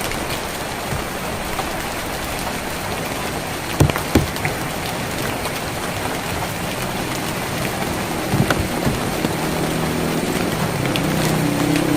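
Steady rain falling on a tin roof, with two louder drip knocks about four seconds in. Near the end a low engine hum comes in and grows louder.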